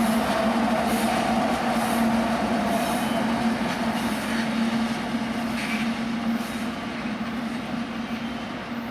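Union Pacific freight train's cars rolling past, a steady rumble with a held low tone that slowly gets quieter toward the end.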